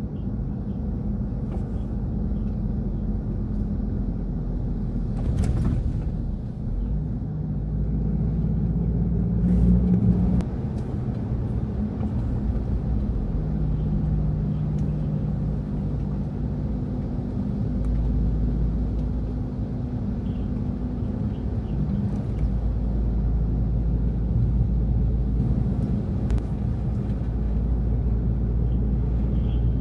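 Steady low engine rumble from a heavy vehicle or vessel, with a brief knock about five seconds in.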